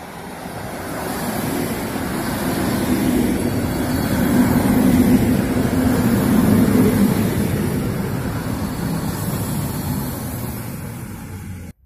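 PolRegio ED72A electric multiple unit arriving at a platform: the rumble of its wheels and running gear grows louder as the train draws near, peaks as the cars pass close by, then eases off. The sound cuts off abruptly near the end.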